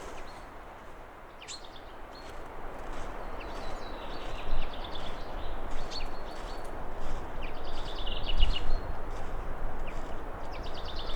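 Wind blowing and gusting, with gusts buffeting the microphone, over small birds calling: short sharp chirps and rapid chattering trills.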